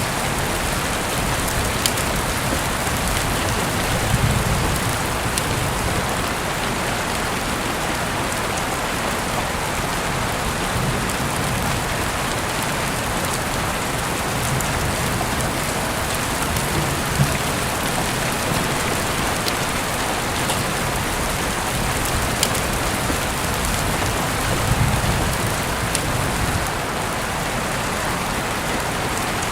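Heavy rain falling steadily, heard through an open window, with scattered sharp drip ticks. A few brief low rumbles come and go.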